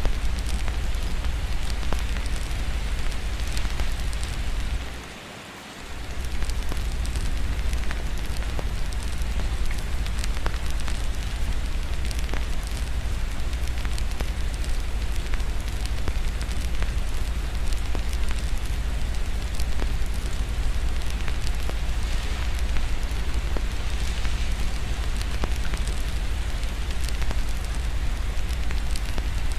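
Steady rain with a fireplace crackling in small sharp clicks over it, and a continuous low rumble underneath. About five seconds in, the whole sound dips away for about a second and then returns.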